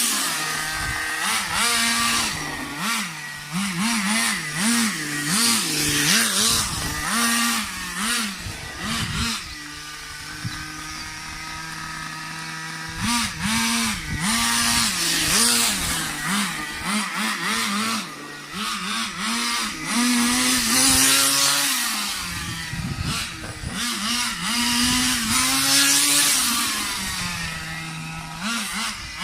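Thunder Tiger 15 Pro nitro engine in an RC car running, its revs rising and falling over and over. It settles to a steady idle for a few seconds about a third of the way through.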